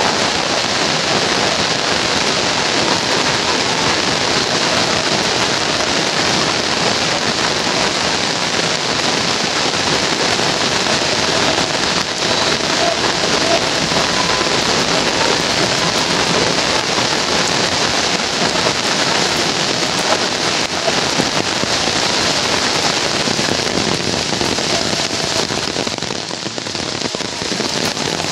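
Heavy rain falling steadily, a dense, even hiss of rain on the wet road, foliage and roofs, easing slightly a couple of seconds before the end.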